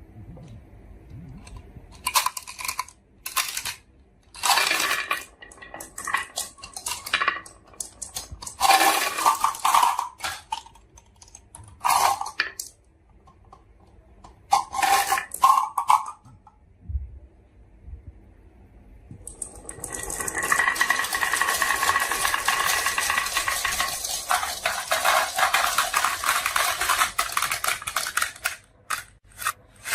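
Glass marbles clattering and rolling down a marble run track: several short bursts of clinking early on, then a long, dense rattle of many marbles rolling together starting about two-thirds of the way in.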